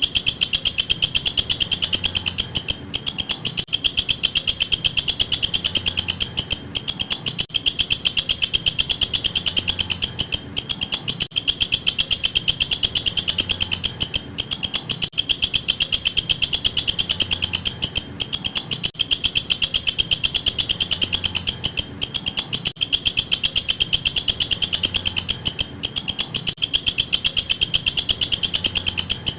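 Walang kecek insect calling: a continuous, high-pitched chirring made of very rapid clicks, broken by short gaps every second or two.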